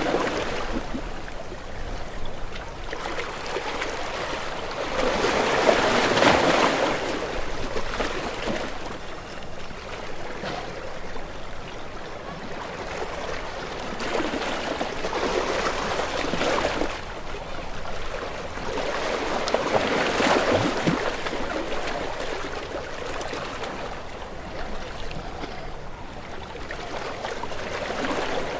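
Sea waves washing in and drawing back, the rush of water swelling and fading every few seconds.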